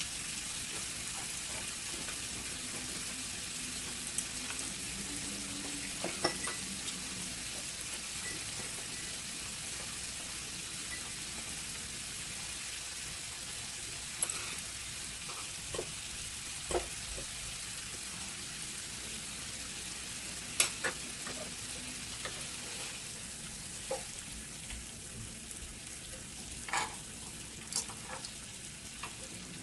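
Argentine red shrimp frying in butter on a grill pan, a steady sizzle, with a few sharp clicks scattered through it.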